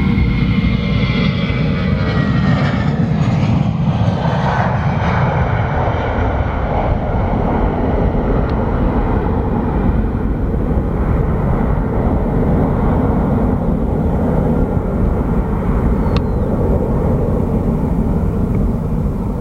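Jet airliner's engines, a loud steady rumble. A high whine sits on top at first, falls slightly in pitch and fades away within the first three seconds.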